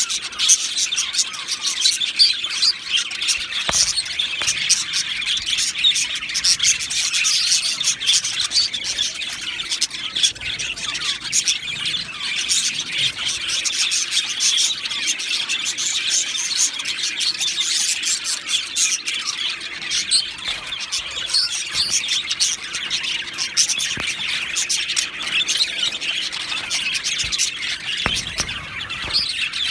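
Budgerigars chirping and chattering without a break: a dense run of quick, high chirps and warbles.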